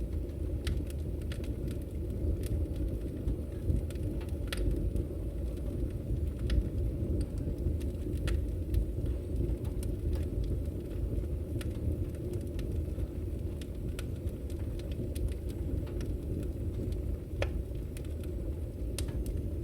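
Firewood burning in a fireplace: a steady low rumble with scattered sharp crackles and pops at irregular intervals.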